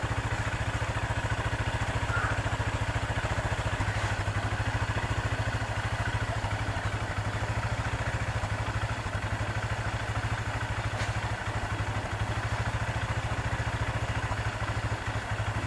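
A small engine running steadily at constant speed, with a fast, even pulse.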